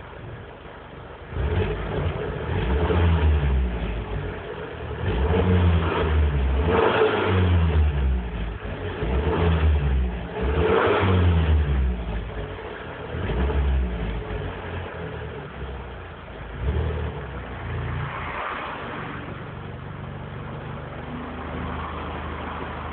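Abarth Grande Punto's 1.4 T-Jet turbocharged four-cylinder engine and exhaust idling, then revved hard several times in quick blips, each rising and falling, before settling back to a steady idle near the end.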